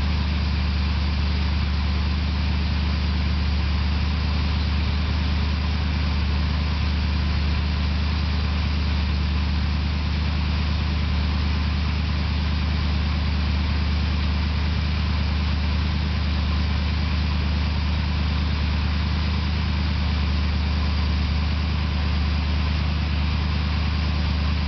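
Newly built carbureted V8 idling steadily on its first run after a frame-off rebuild, with an even, unchanging low engine note and no revving.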